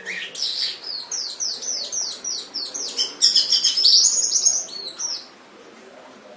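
Domestic canary singing: a fast series of repeated high notes, each sweeping downward, about four a second, then a louder run of quicker notes about three seconds in. The song stops about five seconds in.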